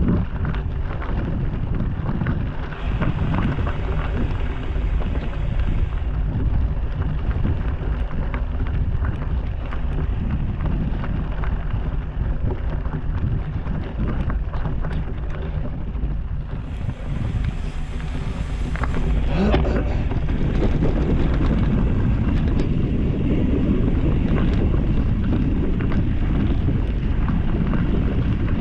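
Mountain bike on the move over a dirt and rock trail. Wind rushes over the microphone, the tyres make steady noise, and the bike rattles and knocks often. The noise gets louder after about twenty seconds.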